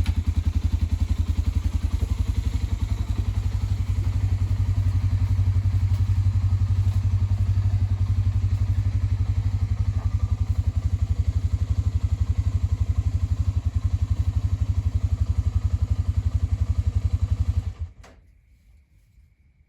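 A small engine running steadily with an even, rapid pulsing beat, shut off abruptly near the end.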